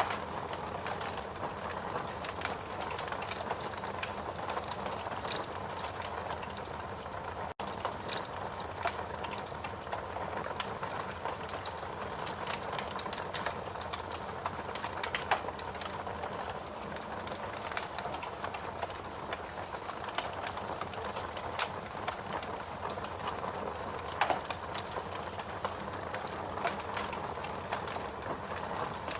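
Log fire in a fireplace crackling steadily, with a continuous hiss and frequent small irregular pops and snaps, a few of them sharper. The sound cuts out for an instant about seven and a half seconds in.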